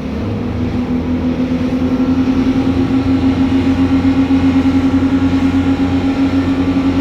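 Twin Suzuki 350 hp four-stroke outboards going to full throttle for a flat-out sprint. The engine note rises and grows louder over the first couple of seconds, then holds steady at high revs.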